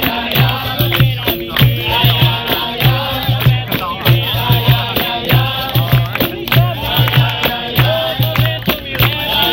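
Live capoeira roda music: a steady, repeating low drum beat with rattling shakers and sharp percussive slaps under group singing.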